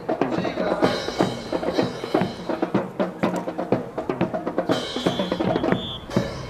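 Drums playing, with snare and bass drum, over many sharp, irregular hits throughout.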